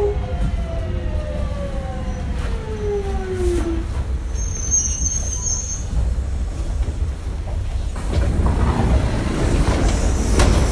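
Kintetsu 1420 series Mitsubishi GTO-VVVF inverter whine falling in pitch as the train slows under braking, the electric braking tones dying out about three and a half seconds in, over a steady low running rumble. A brief high squeal follows, and a louder stretch of rushing noise comes in near the end.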